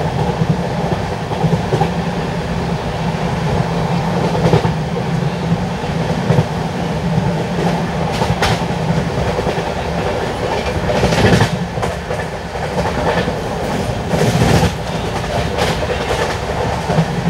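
LHB passenger coaches running along the track, heard from on board: a steady, loud rumble of wheels on rail, broken by a few sharp knocks.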